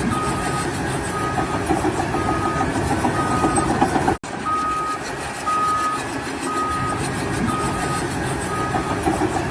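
A heavy vehicle's reversing alarm beeping about once a second, single-pitched, over its engine running. The sound drops out for an instant about four seconds in.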